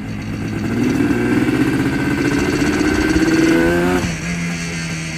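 1976 Yamaha RD400's two-stroke parallel-twin engine accelerating, revs climbing steadily for about three seconds, then dropping abruptly about four seconds in and running on at a lower steady speed, as at a gear change or the throttle closing.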